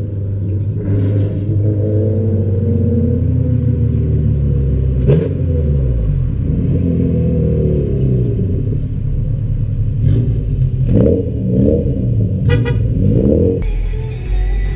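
Car engines idling, with sharp throttle blips about five seconds in and a quick series of revs from about ten seconds in.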